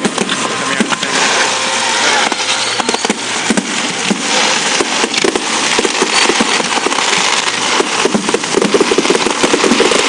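Fireworks display: a dense, rapid crackle of many small pops and bangs, coming thickest near the end.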